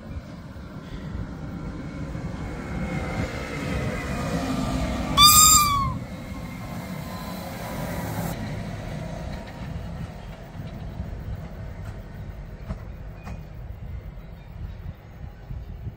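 Electric rack-railway trains of the Jungfrau Railway running past: a low running rumble that builds, then one short horn blast about five seconds in, its pitch dipping at the end. After the horn the rumble eases off, with a few light clicks from the wheels on the track near the end.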